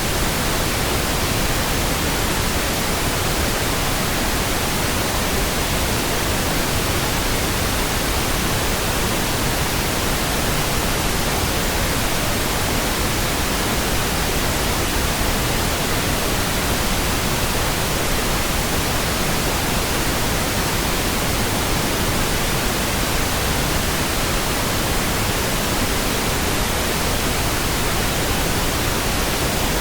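Steady pink noise: an even, unchanging hiss spread across all pitches, with no tones or sudden sounds.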